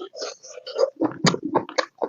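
A person chewing mouthfuls of pork and potato curry close to the microphone: irregular wet mouth sounds with short sharp clicks.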